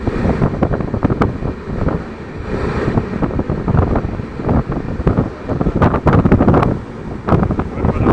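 Running train's rumble and clatter, with wind buffeting the microphone.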